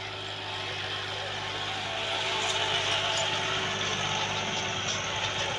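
Massey Ferguson 260 Turbo tractor's diesel engine running steadily, growing somewhat louder about two seconds in.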